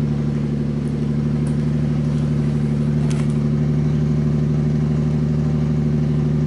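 Lexus GS300's 2JZ-GE naturally aspirated inline-six idling steadily through a muffler-deleted exhaust, with an even, deep pulsing note.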